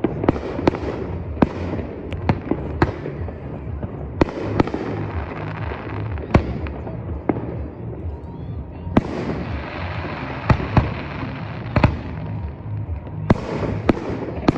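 Fireworks exploding in a steady string of sharp bangs, roughly one or two a second, over a continuous background rumble.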